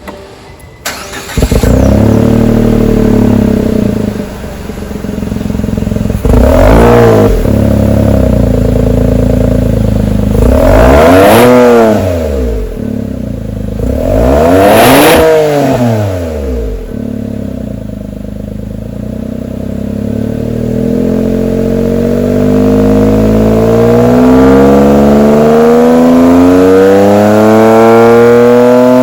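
Exhaust of a Mitsubishi Delica Mini (B38A) through a Wills Win racing muffler: the 660 cc three-cylinder engine comes up loudly about a second in, is blipped four times with the pitch rising and falling each time, then revs climb slowly and steadily toward the end.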